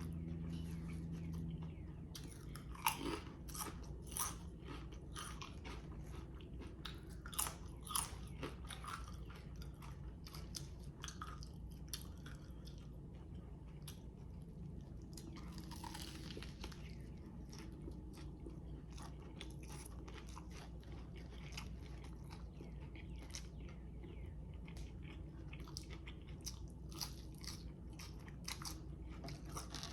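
A person chewing and biting food close to the microphone, with many short sharp crunches and wet mouth sounds. A brief louder hiss-like noise comes a little past halfway.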